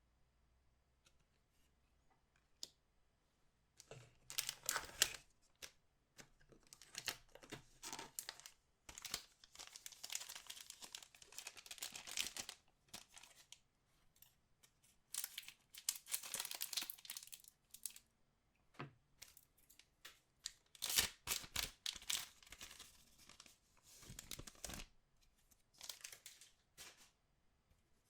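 Plastic trading-card pack wrappers being torn open and crinkled by hand, in irregular bursts that begin about four seconds in and come in several clusters.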